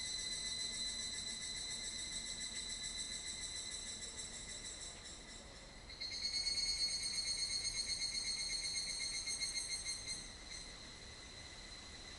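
Insects trilling: a steady, rapidly pulsing high buzz. One trill fades out about five seconds in, a louder one starts a second later and drops away after about four seconds, and a fainter trill carries on underneath.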